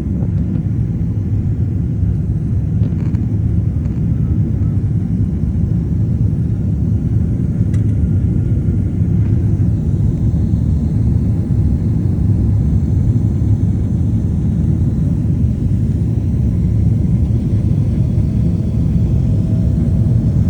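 Steady low rumble of a Boeing 767-400ER's jet engines and rushing air heard inside the passenger cabin during the climb-out after takeoff.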